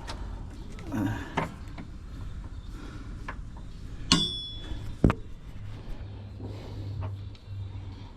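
Metal tools and parts being handled under a car: a few scattered knocks and clicks, with one ringing metallic clink about four seconds in and a sharp knock just after, over a low steady hum.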